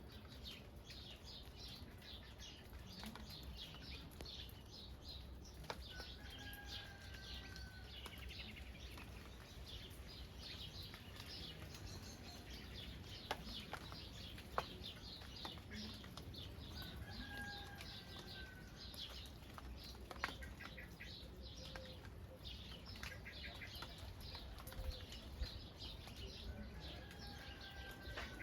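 Birds chirping continuously in quick high twitters over a steady patter of light rain, with a short whistled call repeating about every ten seconds and a few sharp drip taps.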